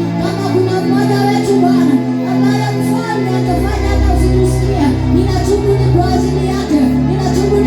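Church worship music: voices singing a wavering melody over sustained keyboard chords, with a deep bass note coming in about halfway through.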